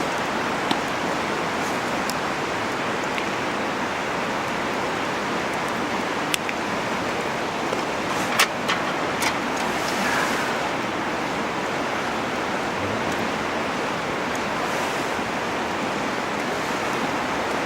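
Steady outdoor rushing noise with a few sharp pops from a wood campfire, three of them between about six and nine seconds in.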